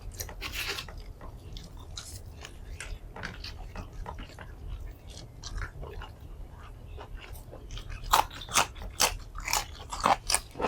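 Close-miked eating: a person chewing and biting into a nasi padang meal, with irregular crunches that become louder and more frequent near the end.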